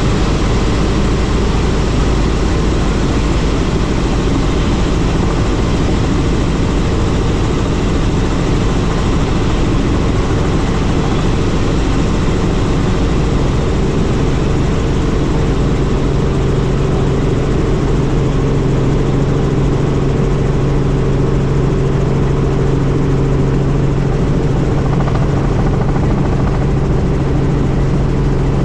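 Helicopter engine and rotor noise, loud and steady, with a steady low hum that grows stronger about halfway through.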